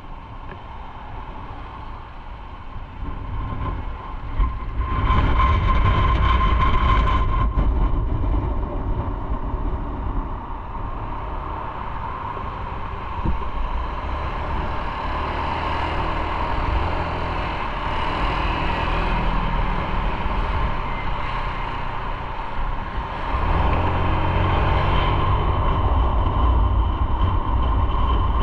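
Motorcycle running on the road, engine rumble mixed with wind and road noise; it gets louder about five seconds in and again near the end.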